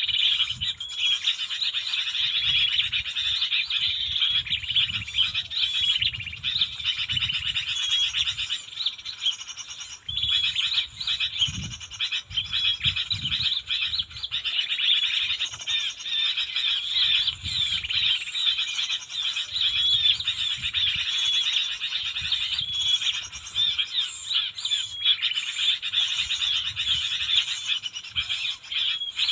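Continuous dense chatter of many small birds chirping rapidly, with intermittent low rumbling underneath.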